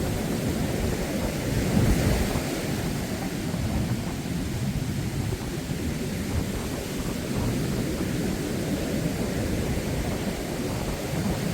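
Wind buffeting the microphone in a low, gusting rumble, over the rush of surf on the beach.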